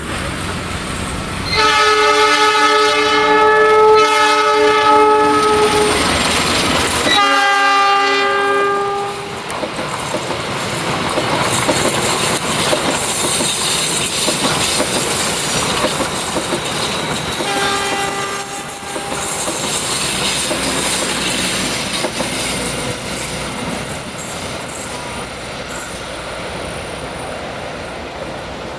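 Train horn sounding a long blast of about four seconds, a second shorter blast, then a brief third one about halfway through, over the steady clatter and rumble of the train's wheels on the rails as it rounds a curve, with a thin high squeal from the wheels in the second half.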